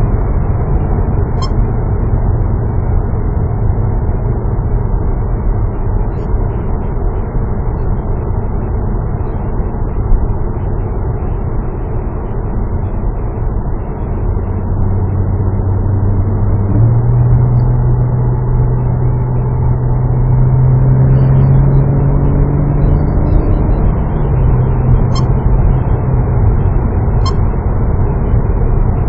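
Porsche Boxster S's flat-six engine in PDK Sport Plus mode, heard from inside the cabin over steady road noise while driving. About halfway through the engine note steps up and climbs slowly, then steps back down near the end.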